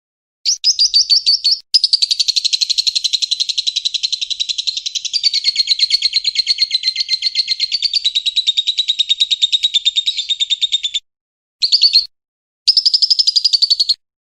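A bird singing high, rapid chattering trills: a short trill, then one long unbroken run of about nine seconds, and after a brief pause two shorter trills.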